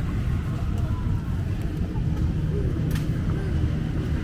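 Steady low rumble of street traffic, with faint pitched sounds rising and falling in the second half.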